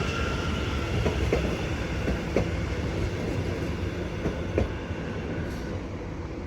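Greater Anglia Class 720 electric multiple unit rolling into the platform: a steady low rumble with scattered wheel clicks over rail joints, growing slightly quieter as it slows.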